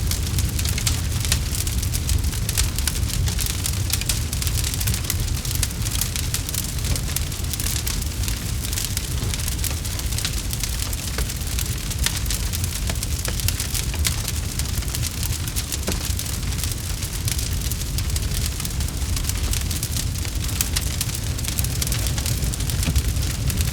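Campfire crackling steadily: a dense stream of small pops and snaps over a low rumble of the burning fire.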